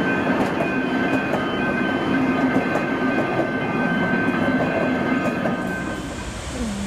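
A train running past on the rails, a continuous rumble with a steady whine held under it and light clicking of wheels over rail joints. The sound thins out about six seconds in.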